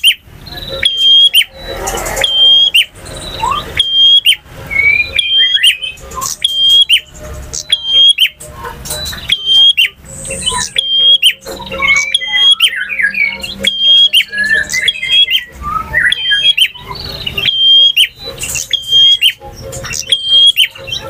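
Male prinia (prenjak) singing: a sharp, high hooked note repeated about once a second, with a run of quicker, varied chirps and trills woven in through the middle.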